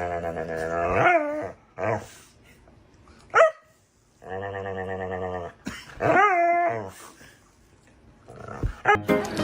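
A dog growling in two long, low, steady rumbles, each followed by short higher-pitched yelps that rise and fall. One sharp, loud yip comes about three and a half seconds in.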